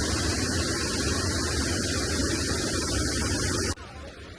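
Steady loud rushing noise that cuts off abruptly near the end, leaving a quieter hiss.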